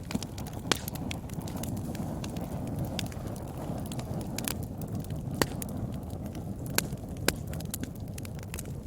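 Wood fire burning in a fireplace: a steady low rumble of flames with scattered sharp crackles and pops, a few of them louder than the rest.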